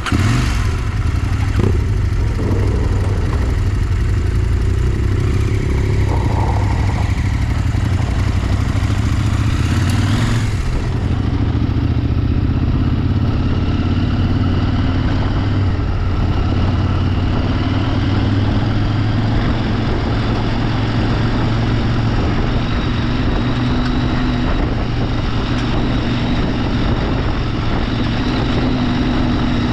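Motorcycle engine running steadily under way, with a constant rush of riding noise. It gets suddenly louder right at the start as the bike pulls away.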